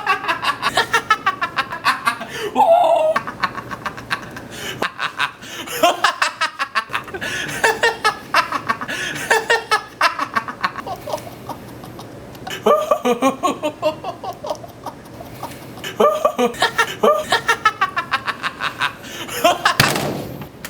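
Human laughter: several bouts of hearty, rapidly pulsed laughing with short pauses between them.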